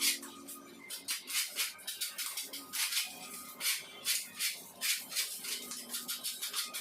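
A hand tool rubbing over a plastered wall in short, quick scraping strokes, about two or three a second, unevenly spaced.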